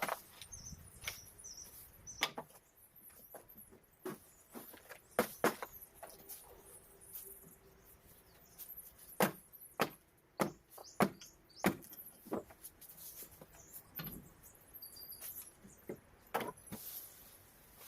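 Irregular knocks and clatters of hand work on timber decking boards, a dozen or so sharp hits spread unevenly, with small birds chirping faintly in the background.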